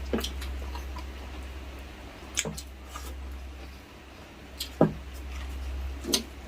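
Occasional sharp clicks and knocks of kitchen utensils, about four spread over several seconds, over a steady low hum.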